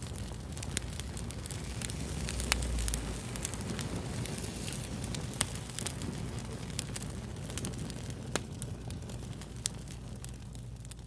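Wood fire crackling: irregular sharp pops and snaps over a steady low hiss and rumble.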